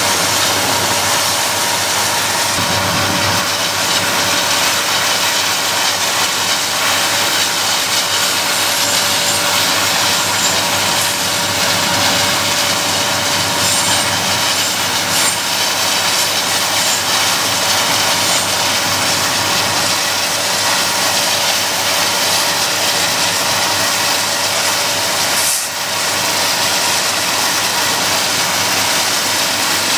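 BNSF SD70MAC diesel-electric locomotive running at speed with its coal train, heard from a vehicle pacing alongside. Its engine and the wheels on the rail blend with wind and road noise into a loud, steady rush carrying two faint steady tones, with one brief dip in level near the end.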